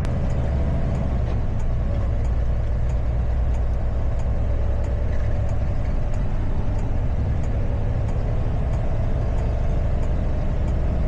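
Box truck engine and road noise heard from inside the cab while driving at a steady speed: a constant low drone, with faint even ticking about twice a second.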